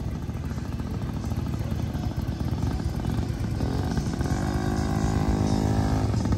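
Motorcycle engine rumbling at low speed and growing louder as it nears. A little over halfway through, its pitch rises and then holds as it is given throttle.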